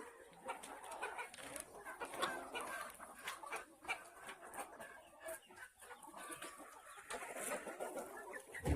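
A flock of hens clucking and calling, many short overlapping calls with scattered sharp clicks among them.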